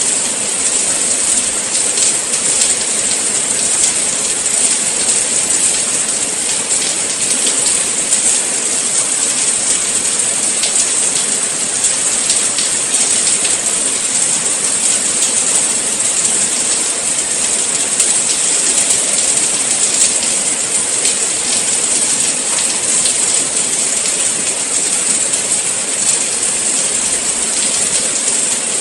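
Steady rain falling: an even hiss made of countless fine drops, with no lulls.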